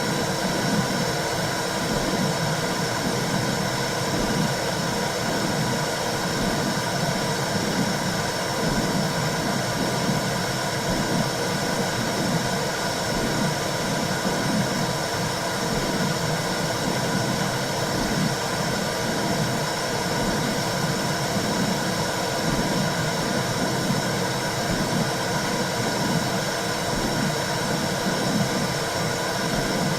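Womb sound used as white noise to soothe a baby: a steady, dense whooshing noise with a slow, low repeating pulse under it.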